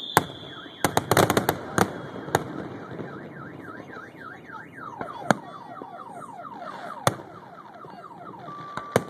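Fireworks bursting with sharp bangs, including a rapid cluster of cracks about a second in and single booms later. Through the middle a car alarm sounds, first wailing rapidly up and down, then switching to quick repeated falling sweeps.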